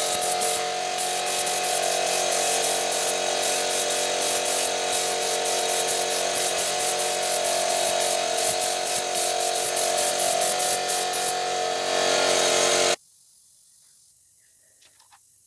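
A small power tool runs steadily with a rapid scratchy grinding texture, then stops abruptly about thirteen seconds in, leaving only a faint background.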